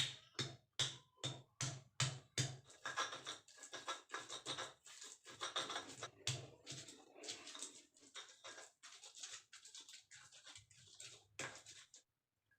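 Kitchen utensil work: a run of quick knocks, about three a second, then a stretch of scraping, then more scattered knocks, with one sharper hit near the end.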